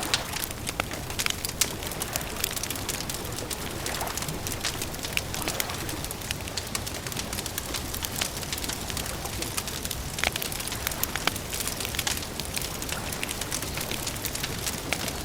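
Campfire crackling: a steady hiss of burning wood broken by many sharp pops and snaps, with a few bird calls, dove-like cooing, now and then.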